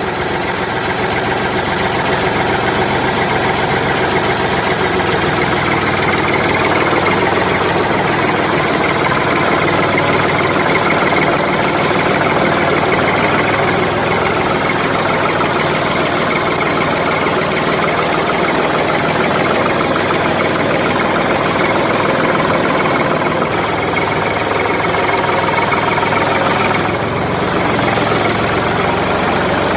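A motor running steadily, with an even, unbroken hum; its upper range dips slightly about 27 seconds in.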